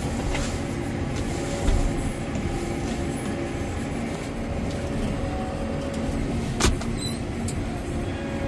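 Heavy vehicle engine running steadily, with a single sharp knock near the end.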